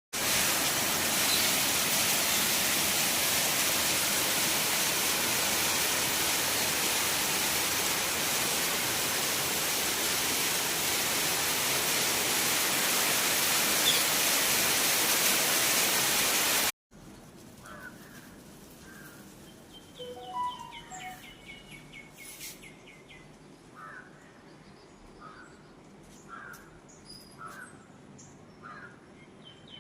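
Heavy rain falling, a loud steady hiss, for about the first seventeen seconds. It cuts off suddenly, and a quiet outdoor background follows with birds chirping and calling over and over.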